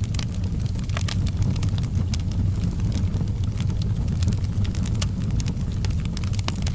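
Wood fire burning in a fireplace, with many irregular sharp crackles and pops over a steady low rumble.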